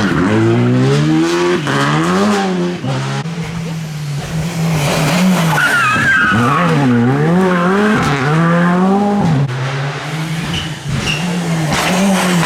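Rally car engine revving hard up and down again and again through throttle lifts and gear changes. About halfway through there is a high squeal, typical of the tyres sliding.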